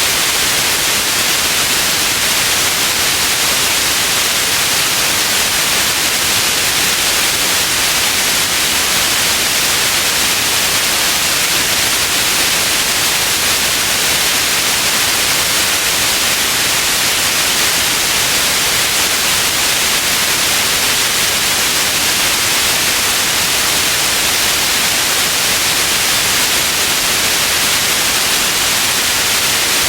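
Steady synthetic white noise, an even hiss with more treble than bass and no change in level, played as a sleep sound.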